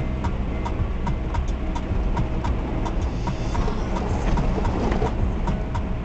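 Steady low rumble of a car's engine and tyres heard from inside the cabin on the highway, with a regular ticking about three times a second over it.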